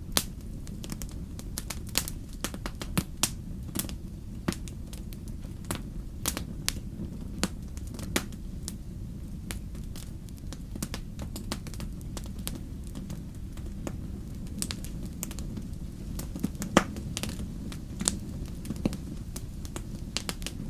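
Wood campfire crackling: many sharp, irregular pops and snaps over a steady low rumble of the burning fire, with one louder pop near the end.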